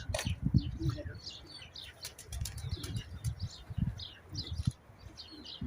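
Small birds chirping in many short, high calls, over low thumps and rumble, with a cluster of sharp clicks about two seconds in.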